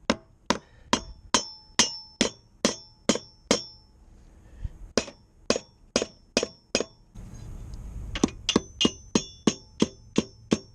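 Hammer striking metal in a series of sharp ringing clangs, about two to three a second, pausing briefly twice and speeding up near the end: tapping to mark hole positions.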